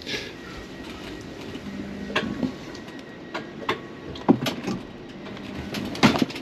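Inside a train carriage: a steady running rumble with scattered knocks and rattles, the sharpest about six seconds in.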